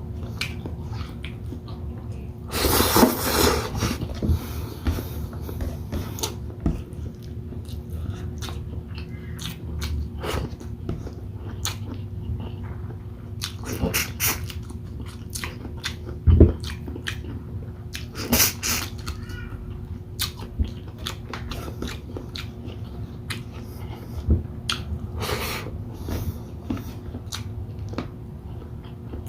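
Close-miked eating: a person chewing and biting a meal of shrimp in coconut sauce with rice, with frequent wet mouth clicks. There is a louder noisy stretch about three seconds in and a short low thump about halfway through.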